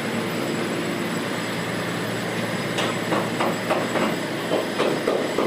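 Steady mechanical drone of running machinery, joined about three seconds in by a regular knocking at roughly three knocks a second.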